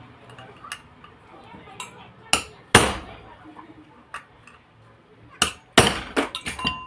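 Hammer tapping on the metal parts of an exhaust fan motor during a shaft bush change: about ten irregular sharp knocks, two much louder than the rest, with a short metallic ring after the last quick strikes.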